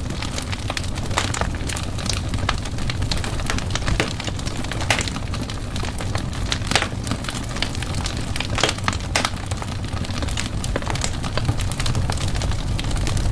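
Wood fire burning in a fireplace: a steady low rumble of flame with frequent irregular crackles and pops.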